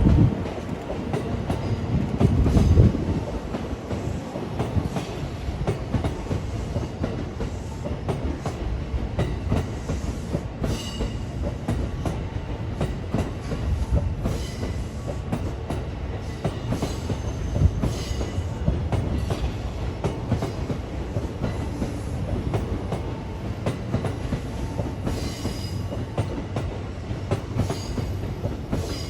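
Electric passenger train running: a steady low rumble with the wheels clicking over rail joints, loudest in the first few seconds.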